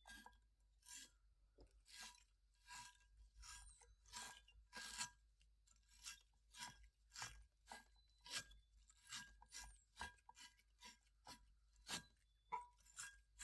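Battery terminal cleaning brush scrubbing inside the lug-nut holes of an aluminum wheel: faint, short scratchy strokes, about two a second.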